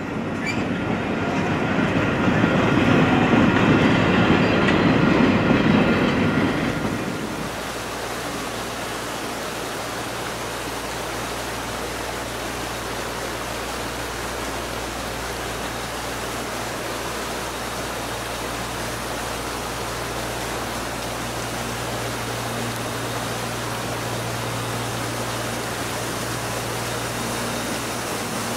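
Passenger coaches of a steam excursion train rolling past, the rumble swelling and then cutting off about seven seconds in. A steady rushing hiss with a low hum follows.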